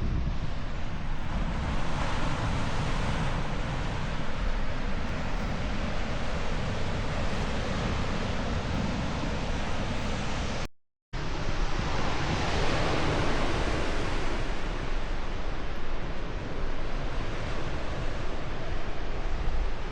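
Wind buffeting the microphone over steady ocean surf, the wash swelling twice. The sound drops out for a moment about eleven seconds in.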